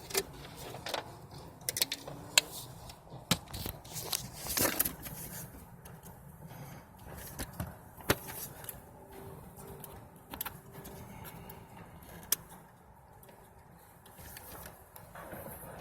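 Hands working plastic electrical connectors and wiring in an engine bay: scattered clicks, taps and rustling, with the sharpest clicks about two seconds in and about eight seconds in.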